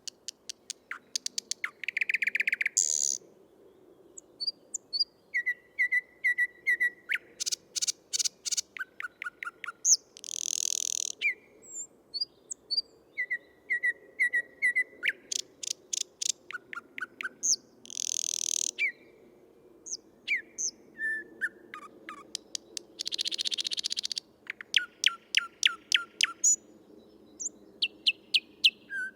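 Male thrush nightingale singing: phrase after phrase of rapid dry clicks, short piping whistles and loud harsh rattles, separated by brief pauses.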